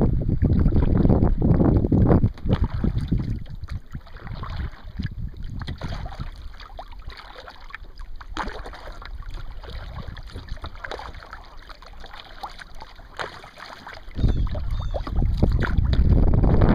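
Kayak paddling: water splashing and dripping from the paddle against the hull, with short clicks and splashes. Wind buffets the microphone with a loud low rumble for the first two seconds and again for the last couple of seconds.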